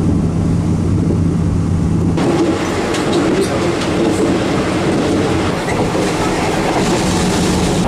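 Moving passenger train heard from inside the carriage: a steady running rumble of wheels on the rails, with a droning hum. About two seconds in, the sound changes abruptly to a louder, rougher rumble.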